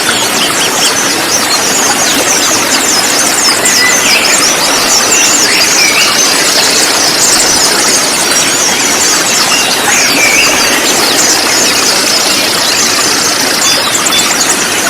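A flock of konin sunbirds calling together: a dense, continuous tangle of high-pitched chirps and trills, over a steady hiss.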